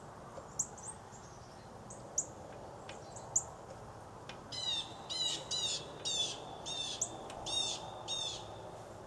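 A songbird calling: a few scattered short, high chirps, then from about halfway a quick run of about eight repeated sweeping notes, a little over two a second, for nearly four seconds.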